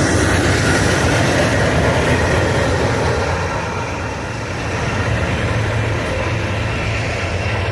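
Union Pacific train passing close by, a loud, steady rumble of wheels on the rails.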